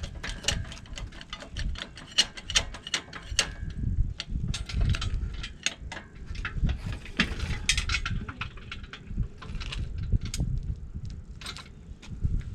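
Irregular metallic clicks and clinks from hand work on the engine and hoist rigging, over wind gusting on the microphone.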